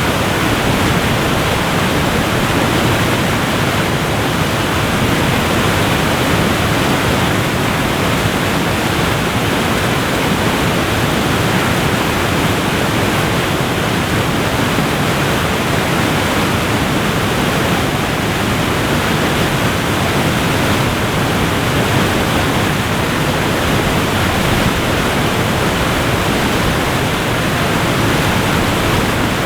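Waterfall: a steady, dense rush of falling water with no change throughout.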